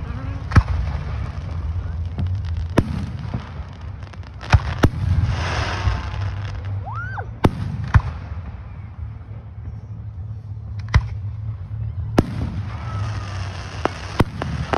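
Fireworks display: aerial shells bursting overhead in sharp bangs, about ten of them at irregular gaps of one to three seconds.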